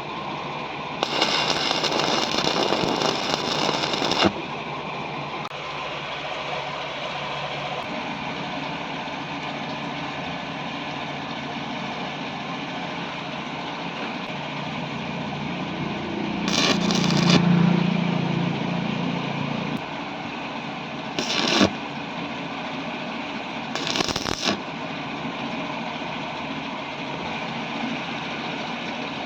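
Steady machine running noise, with a few louder noisy bursts: a long one near the start, one of about three seconds past the middle, and two short ones after it.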